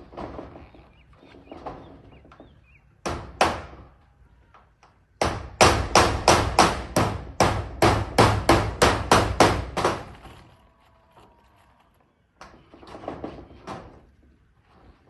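Hammer driving nails into corrugated zinc roofing sheets. It strikes a few times, then hammers steadily at about three blows a second for about five seconds, then goes back to lighter, scattered taps.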